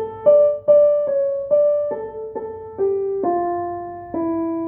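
Piano playing a slow minor-key melody one note at a time, about two notes a second, each note struck and left to fade. The line steps down in pitch over the second half, with the last notes held longer.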